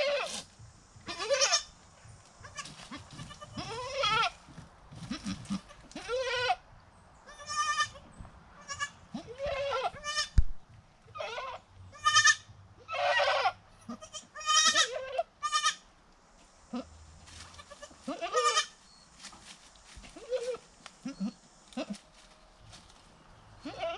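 Goats bleating, many short calls one after another with short pauses between them, some higher and some lower.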